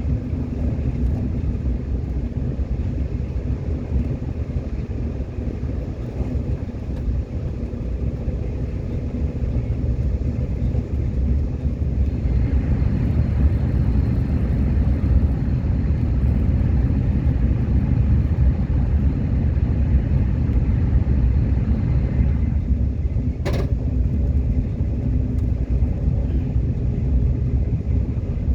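Subway train running steadily, its wheels on the track making a continuous low rumble. For about ten seconds in the middle it grows a little louder with a faint high whine, and a single sharp clack comes near the end.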